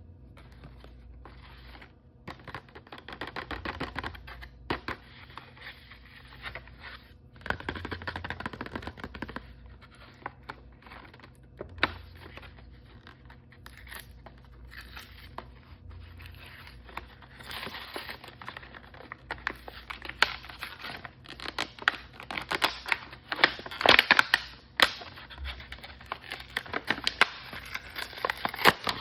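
Toy packaging being handled and torn open by hand: scratchy tearing and crinkling of plastic or foil wrapping, mixed with sharp clicks and taps, busier and louder in the second half.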